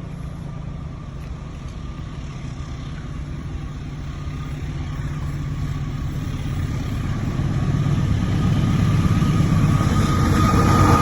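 A train approaching on the line: a low engine and rail rumble growing steadily louder, with a thin high tone coming in near the end.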